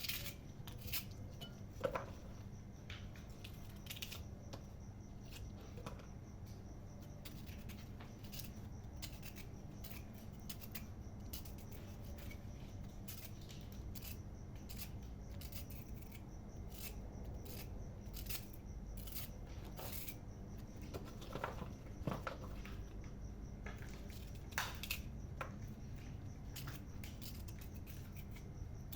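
Scattered light clicks and taps of hands working with kitchen utensils and ingredients, spaced irregularly, over a low steady hum.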